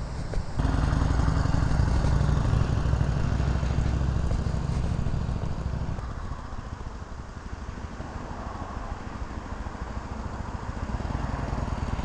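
Harley-Davidson Sportster Iron 883's air-cooled V-twin running, jumping louder about half a second in as the bike is ridden under throttle, then fading after about five seconds and growing louder again near the end.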